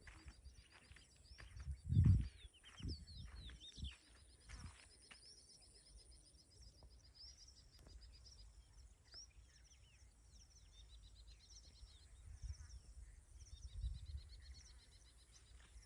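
Small birds chirping and calling in short, quick, repeated notes. A couple of low bumps on the microphone break in, the loudest about two seconds in.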